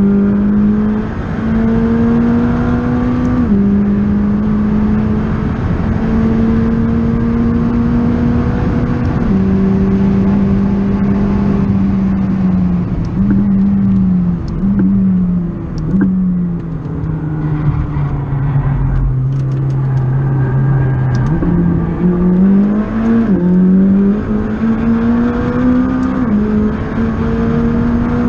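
McLaren 600LT's twin-turbo 3.8-litre V8 heard from inside the cabin, pulling hard through the gears. The engine pitch climbs and drops sharply at each quick upshift. In the middle it steps down with short breaks as the car slows, holds low for a few seconds, then climbs again through several more upshifts.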